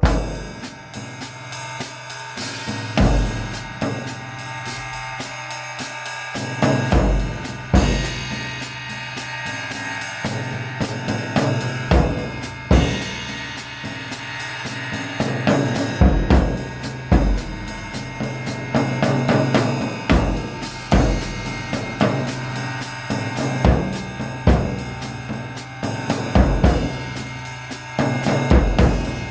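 Music played on a drum kit: bass drum and snare hits with cymbals over rapid, even hi-hat ticks and a steady low note.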